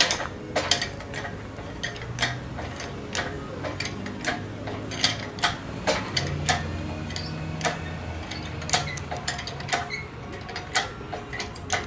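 Irregular metallic clicks, clanks and sharp knocks of hands-on garage work: tools and hardware being handled during an engine swap. A low, steady hum runs underneath.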